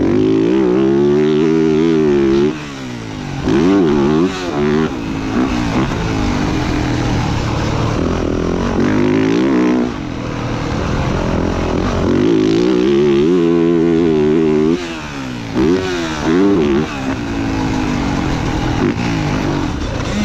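Motocross dirt bike engine revving hard and easing off as it rides a lap, its pitch climbing and falling over and over. The throttle is chopped briefly twice, about two and a half seconds in and again near fifteen seconds.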